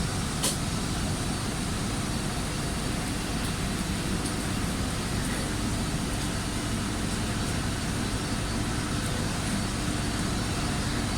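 Steady engine drone, dense and unchanging, with a faint steady hum and a single sharp click about half a second in.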